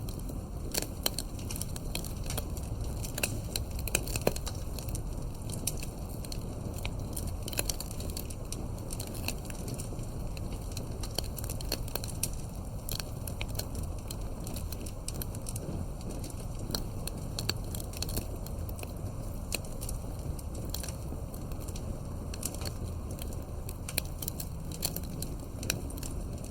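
Wood campfire crackling: a steady run of sharp pops and snaps, a few louder ones, over a constant low rumble of wind.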